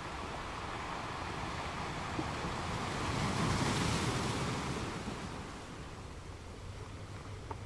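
Ocean waves on a sandy beach: a wave swells and breaks about three seconds in, then washes back and settles into a steady hiss of surf.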